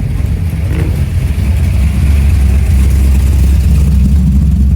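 Car engine running with a loud, deep low note that swells about two seconds in.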